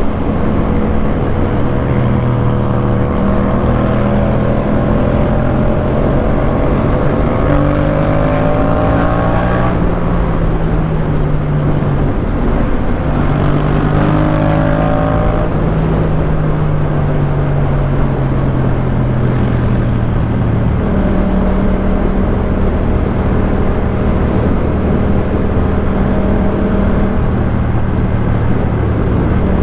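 Yamaha MT-07's parallel-twin engine through a Jeskap K4 full aftermarket exhaust while riding. The pitch climbs under acceleration about eight seconds in, drops at a gear change, climbs again, then falls away slowly and settles into a steady cruise.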